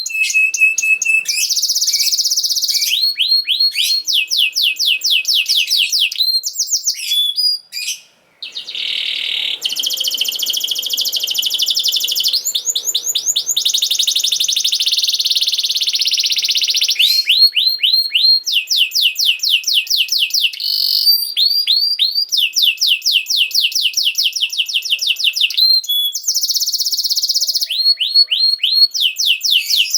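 Domestic canary singing its long song: runs of rapid, repeated high sweeping notes alternating with buzzy rolling trills, with a brief break about eight seconds in.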